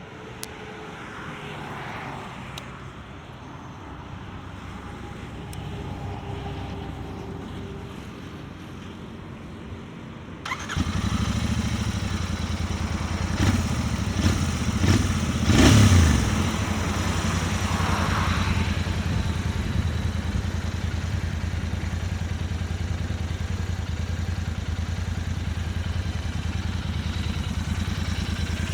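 Royal Enfield GT650's 648 cc parallel-twin engine through its stock exhaust, coming in suddenly about a third of the way in. It is revved a few times, then settles into a steady, low idle. Before that there is only a quieter background.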